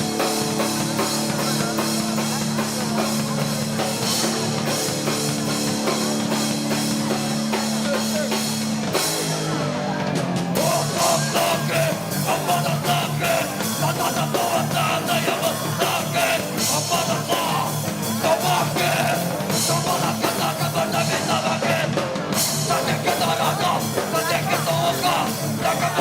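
Live hardcore punk band playing loud: guitars hold ringing notes for about nine seconds, then drums and the full band come crashing in.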